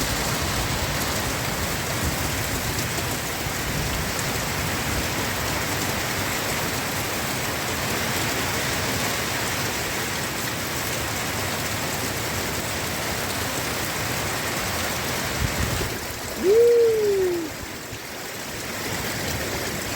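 Heavy rain pouring down in a thunderstorm, a steady rushing hiss that drops noticeably about sixteen seconds in. Shortly after, one brief pitched sound rises and falls once, louder than the rain.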